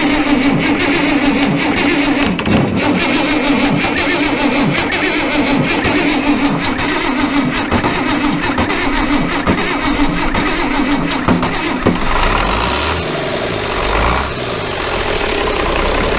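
Starter cranking the International Harvester 1086's six-cylinder turbo diesel, a steady whine with uneven firing pulses, the engine long unused and fire-damaged. About twelve seconds in the starter whine stops and the engine catches and runs.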